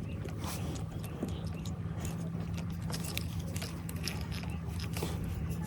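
A steady low mechanical or electrical hum with scattered sharp clicks and crackles over it.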